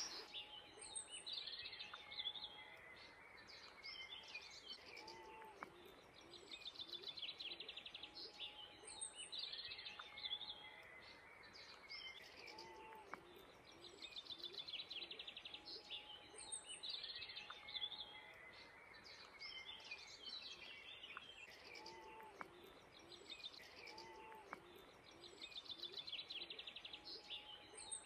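Several songbirds singing faintly, short song phrases and quick trills recurring every few seconds.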